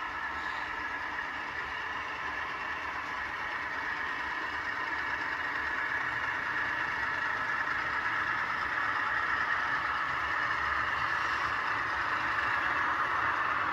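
Sound decoders in HO scale model locomotives playing the running sound of a GE twelve-cylinder diesel prime mover, steady and slowly growing louder as the train works upgrade.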